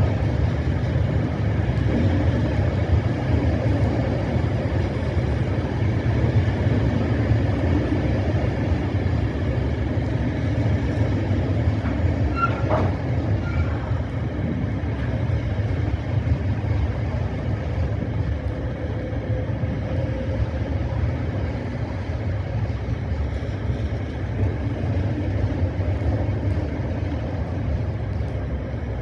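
Train running with a steady low rumble, with a faint brief high tone about halfway through.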